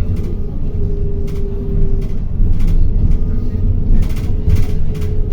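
City bus running, heard from inside: a steady low rumble with a whine that drops out around two seconds in and returns near the end, and several short rattles or knocks from the body.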